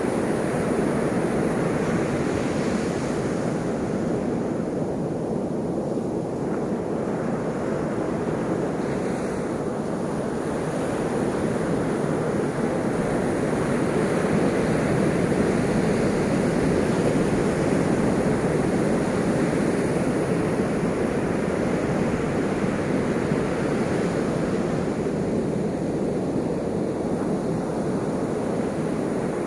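Ocean surf: a continuous rush of waves breaking and washing in, swelling slightly louder around the middle.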